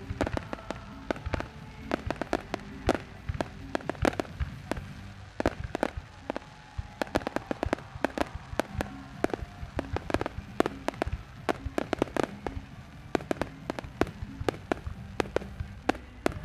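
Aerial fireworks bursting: a rapid, irregular stream of sharp bangs and crackles.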